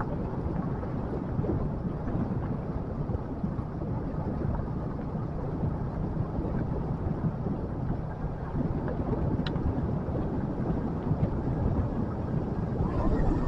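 Motorcycle running steadily on the move, its engine hum under a low wind rumble on the microphone.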